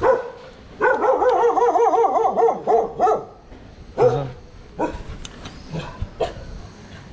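Several street dogs barking together. A rapid, overlapping run of barks lasts from about a second in for about two seconds, followed by a few single barks.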